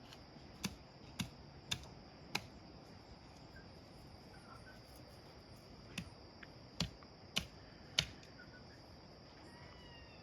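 Eight sharp knocks in two groups of four, about half a second apart, the first group near the start and the second about six seconds in, over a steady high-pitched drone.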